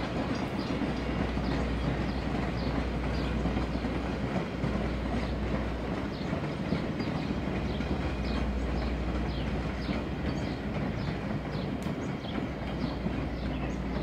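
Passenger train coaches rolling past on the track, a steady rumble with many short clicks of the wheels over the rail.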